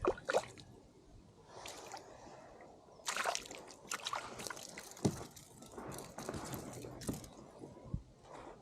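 Water sloshing and splashing beside a kayak, quiet at first and then a run of irregular splashes in the second half.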